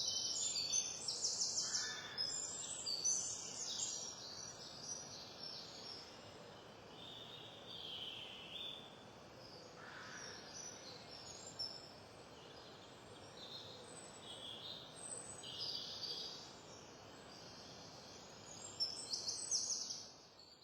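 Songbirds singing: repeated high, quick trilling and warbling phrases over a steady background hiss, fading out at the very end.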